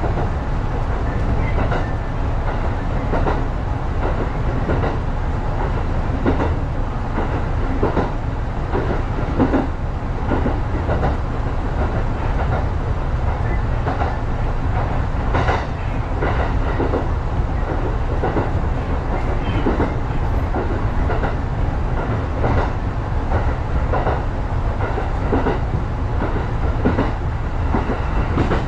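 Kintetsu Tawaramoto Line electric commuter train running along the track, heard from inside just behind the driver's cab: a steady low rumble with frequent irregular clacks of the wheels on the rails.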